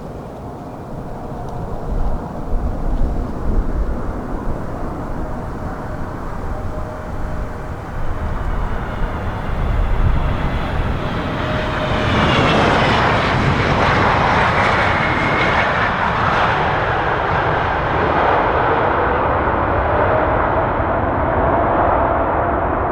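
Jet airliner on landing approach passing close by, its engine noise swelling about halfway through, with whining tones that slide down in pitch as it goes past. Before it arrives, strong gusty wind buffets the microphone.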